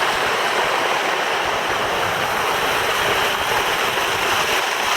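Steady rush of water falling and splashing into a pool, from the resort's fountains and waterfalls.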